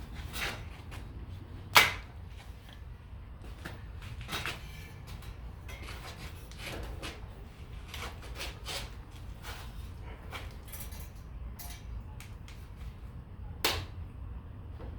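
Scattered knocks and clanks of metal pieces being handled and set down, with two sharper impacts, one about two seconds in and one near the end, over a low steady hum.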